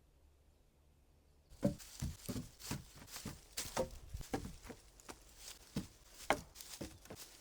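Irregular crunching and small snapping knocks of dry twigs and forest litter, starting abruptly about a second and a half in after near quiet.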